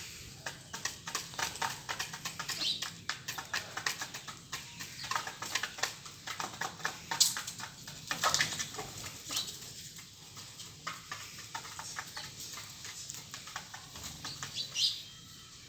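Aseel chickens moving about: many quick taps and scratches, with a few short high calls, one about two seconds in and one near the end.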